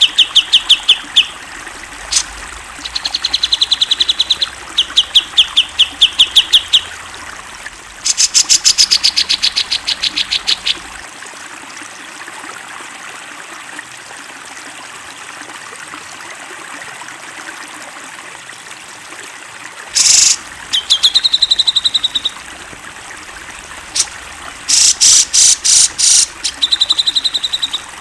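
Grey-cheeked bulbul (cucak jenggot) calling in bursts of rapid chattering notes, about ten a second, each burst lasting one to three seconds, with a pause of about nine seconds in the middle. A steady trickle of running water continues underneath.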